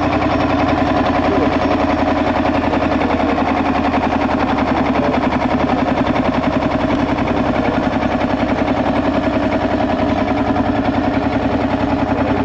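Vintage tractor engine running close by with a rapid, steady exhaust beat.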